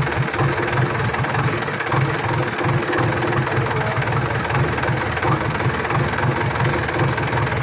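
Diesel engine of a JCB machine idling steadily, with an even low pulse.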